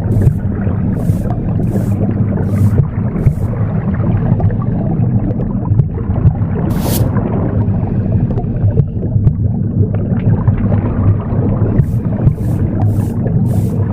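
Broom bristles swishing across a floor in short sweeping strokes, about one every 0.7 s for the first few seconds, a single stroke about halfway, and a quicker run near the end. Under them runs a steady low whooshing rumble of womb sound, the noise heard inside the uterus.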